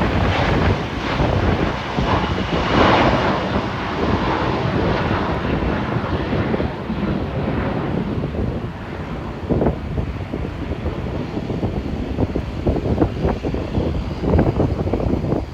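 Jet noise from an Embraer E170's twin CF34 turbofans at takeoff thrust, a broad rushing sound whose higher part fades after about five seconds as the jet climbs away, with wind buffeting the microphone.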